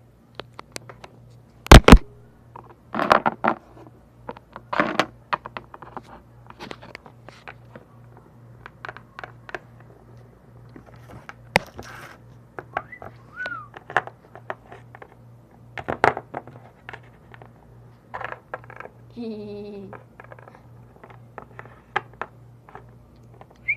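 Irregular clicks and knocks, as of objects being handled, with two loud knocks about two seconds in and about sixteen seconds in, over a faint pulsing hum. A short voice-like sound comes near the end.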